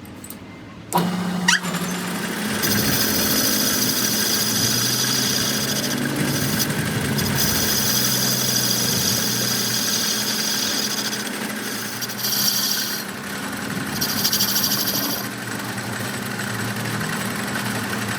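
A workshop machine's motor starts about a second in and runs steadily, with a high squeal that comes and goes several times.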